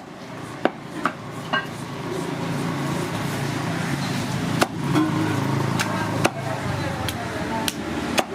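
Sharp knocks of cooking utensils, about seven at irregular intervals, over a steady background of voices and street traffic.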